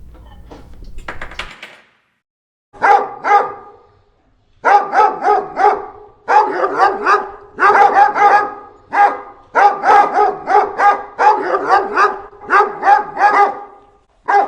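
A dog barking in quick runs of short, high yaps, starting about three seconds in and keeping up to the end.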